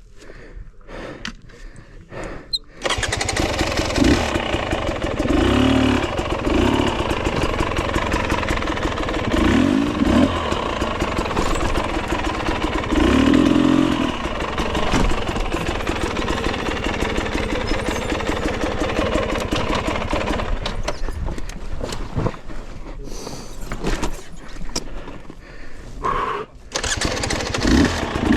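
Dirt bike engine starting about three seconds in and then running, revving up and down several times.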